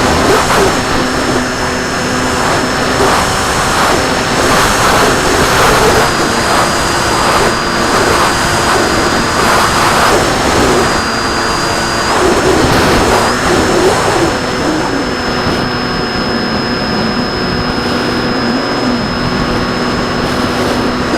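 RC plane's motor and propeller running steadily in flight, with a thin high whine that shifts slightly in pitch over rushing air noise.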